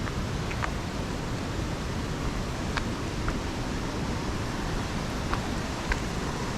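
Thermal waterfall rushing steadily, an even wash of falling water with a few faint short ticks over it.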